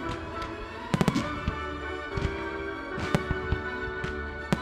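Fireworks going off with a music soundtrack playing: a quick cluster of sharp bangs about a second in, then single bangs scattered through the rest.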